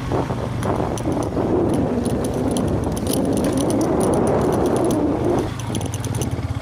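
Yamaha FZ V2's single-cylinder engine running steadily under load on a rough dirt track, with clicking and rattling from the bike over the bumps.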